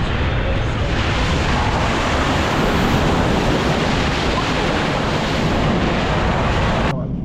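Loud, steady rushing noise, heaviest in the lows, that cuts off abruptly near the end.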